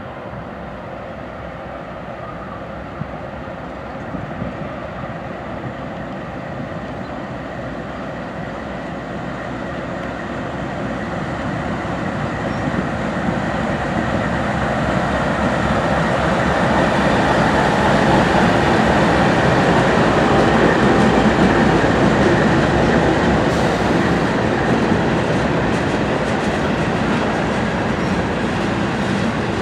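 Train rolling past, its wheels running over the rails with a clickety-clack, growing steadily louder over the first half and staying loud as the cars go by.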